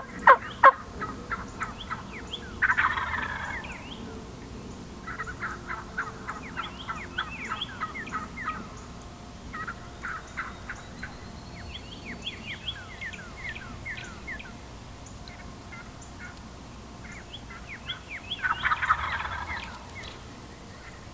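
Wild turkeys calling: a hen yelping loudly in a quick even series right at the start, then long runs of rapid clucks and cutts from an excited hen, while toms gobble twice, about three seconds in and near the end.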